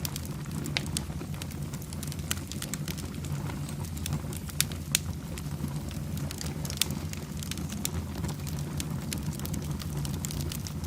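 Fire burning in a fireplace: a steady low rumble of flames with scattered crackles and pops throughout, a few of them sharper snaps.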